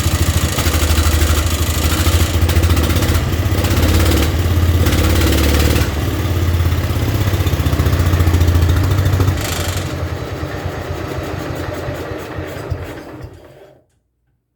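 Single-cylinder Kohler K241 engine of a John Deere 112 lawn tractor running hard, then dropping off about nine and a half seconds in and winding down until it stops near the end.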